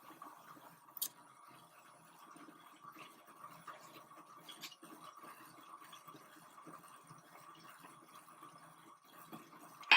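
Quiet handling of metal lathe parts while an attachment is fitted to the glass lathe's chuck: a few sharp clicks, one about a second in and the loudest at the very end, over a faint steady hum.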